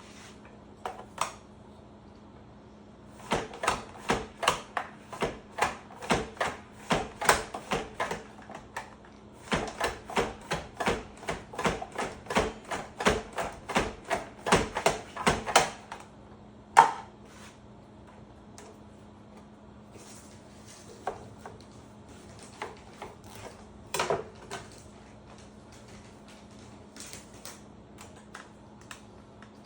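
Zucchini being sliced on a mandoline slicer: quick rhythmic strokes across the blade, about three a second, in two runs of several seconds each. These are followed by a single sharp knock and a few scattered taps.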